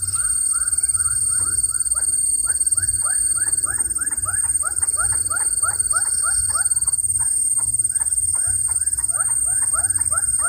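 Newly hatched bird-of-prey chicks cheeping in a rapid, continuous series of short peeps, about four to five a second, with a brief pause about two seconds in.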